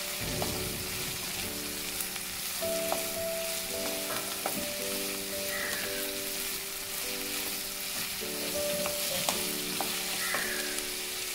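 Sliced shallots and onion sizzling in hot coconut oil in a kadai, with a steady frying hiss and scattered clicks of the spatula stirring against the pan. Soft background music with held chords that change about every second runs underneath.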